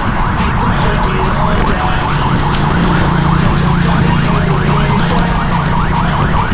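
Wind buffeting a GoPro action camera's microphone on a bicycle in a road race, with a quickly repeating rising whine over it, like a vehicle siren.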